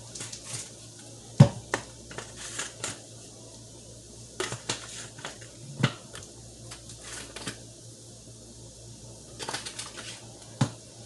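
Seasoning containers being handled and shaken over raw chicken: a run of short clicks, knocks and quick rattles, with one louder knock about a second and a half in as a container is set down.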